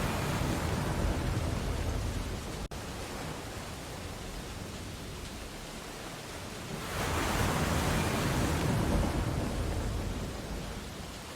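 Ocean waves washing onto a beach: steady surf noise, with one wave already breaking at the start and easing off, and the next swelling in about seven seconds in and fading near the end.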